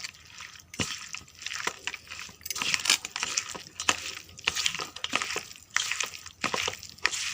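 Chicken pieces being mixed with a thick, wet spice-and-flour coating in a bowl: irregular squelching and squishing with light clinks and knocks against the bowl.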